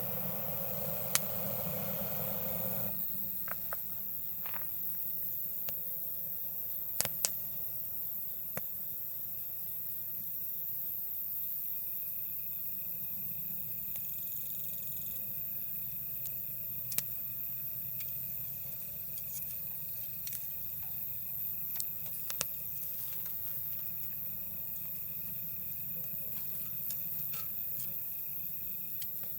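Wood campfire crackling with scattered sharp pops, over a steady high-pitched chorus of night insects. A soft rushing noise sounds for the first three seconds.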